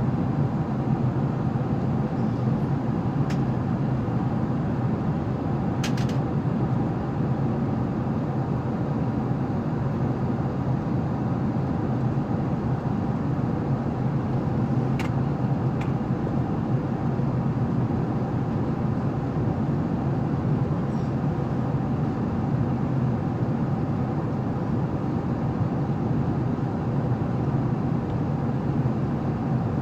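Steady in-flight cabin noise of an Airbus A380 airliner: an even rush of engines and airflow with a low hum, broken only by a few faint clicks.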